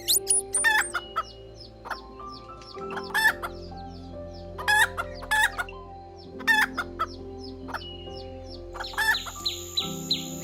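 Chicken calling: about five short, loud clucking calls a second or two apart, over soft background music with held notes.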